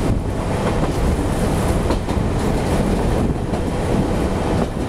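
Passenger train running along the track, heard from aboard: a steady, loud rumble of wheels on the rails.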